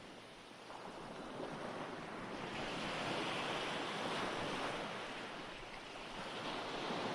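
Ocean surf washing ashore, played as a background recording: a wave swells up from about a second in, holds, eases off near six seconds, then the next one builds.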